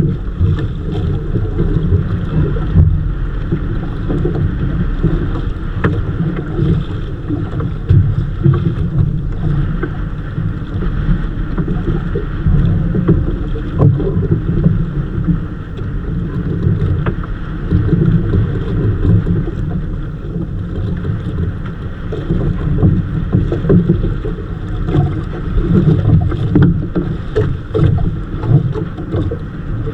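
Wind buffeting the microphone aboard a small fishing boat at sea, with water washing around the hull; a loud, uneven rumble that gusts up and down throughout.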